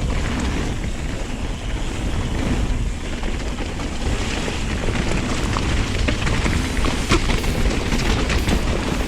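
Mountain bike descending a gravel trail: wind buffeting the microphone and tyres rumbling over the ground, with sharp clicks and rattles from stones and the bike, more of them in the second half.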